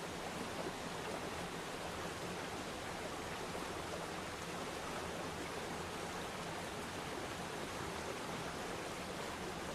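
Waterfall splashing steadily into a pond: a constant, even rush of falling water with no breaks.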